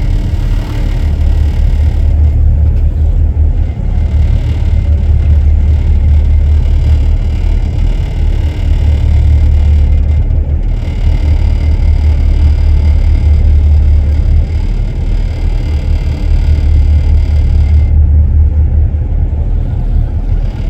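Wind buffeting the microphone: a loud, steady low rumble with an irregular flutter.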